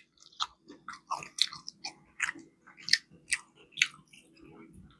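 Close-miked chewing of crispy fried chicken wings: a run of sharp crunches and crackles as the skin is bitten and chewed, about two or three a second.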